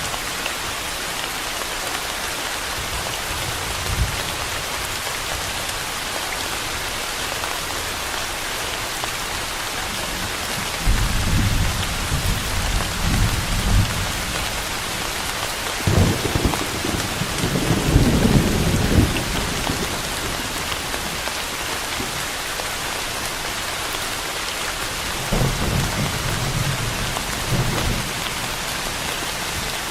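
Steady rain hissing, with low rolls of thunder rumbling three times: about a third of the way in, again just past the middle (the loudest), and near the end.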